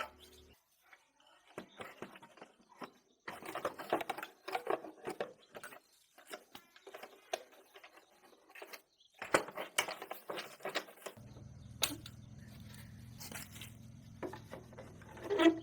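Irregular light tapping, clicking and rustling of hand work on small parts, with a steady low hum starting about eleven seconds in.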